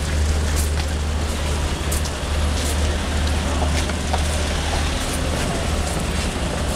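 Steady low rumble of a large road vehicle's engine, such as a bus, with traffic noise and a few light clicks.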